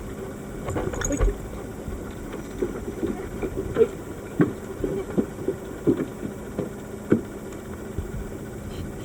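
Dive boat's engine idling steadily, with scattered short knocks and splashes.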